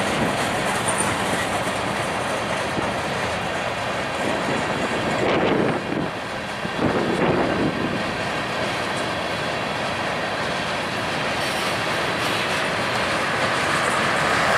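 Freight train of tank cars and covered hoppers rolling past, a steady rumble and rattle of steel wheels on the rails, with two louder swells about five and seven seconds in.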